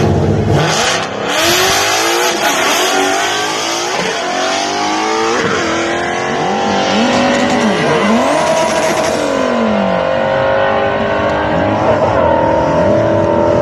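Ford Mustang GT's 5.0 V8, with a 200-shot of nitrous, launching hard and accelerating down the drag strip, its pitch climbing through the gears with a drop at each shift of the manual gearbox.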